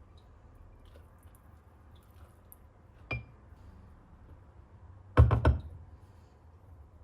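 Hard objects handled and set down: a single light clink with a short ring about three seconds in, then a quick run of three or four knocks a couple of seconds later.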